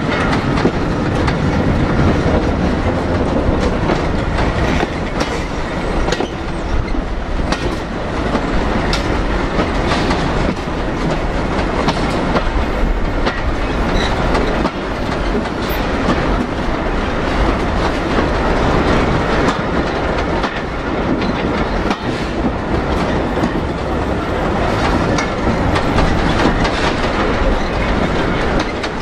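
A moving train's wheels rolling along the track and clicking irregularly over rail joints, with the steady rumble of the running wagons, heard from aboard an old wooden wagon.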